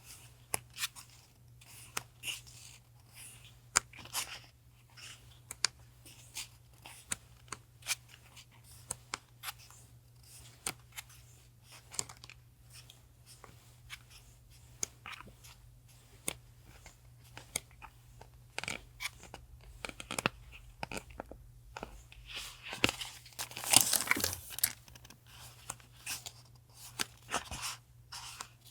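Paper and plastic packaging being handled and torn open: rustling, crinkling and tearing in a string of short bursts, loudest about 24 seconds in, over a low steady hum.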